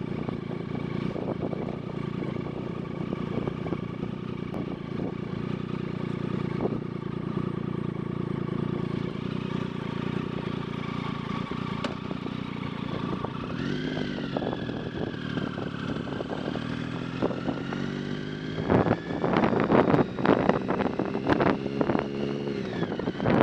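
Motorcycle engine idling steadily, then revved about two-thirds of the way through, its pitch climbing slowly afterwards as it pulls away. Gusts of wind hit the microphone near the end.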